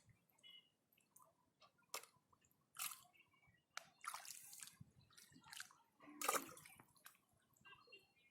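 Faint, scattered small splashes and drips of water, about one every second, the loudest about six seconds in.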